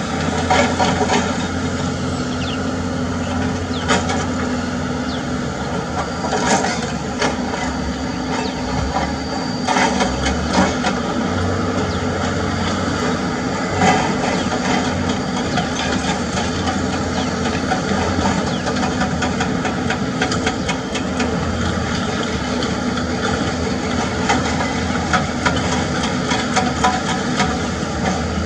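Heavy excavator diesel engine running steadily, with irregular sharp knocks and clanks of rock and steel throughout.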